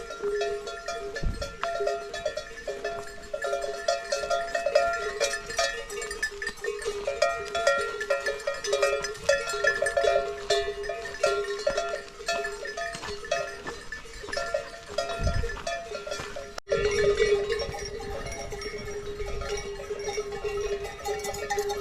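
Several bells clanking irregularly at a few different pitches, overlapping one another, with a brief dropout about three-quarters of the way through.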